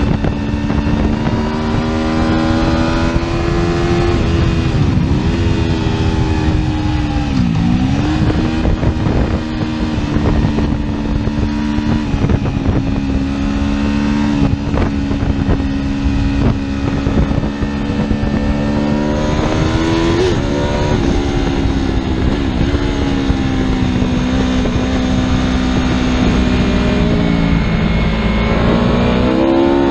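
Superbike engine running at a steady high engine speed under way. The pitch dips sharply twice, about five and seven seconds in, wavers around twenty seconds, and climbs again near the end.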